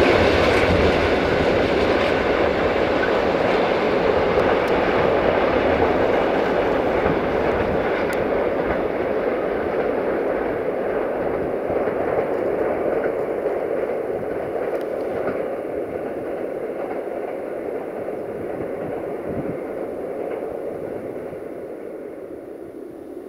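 Freight train of tank wagons rolling away along the track, the noise of its wheels on the rails fading steadily as it recedes.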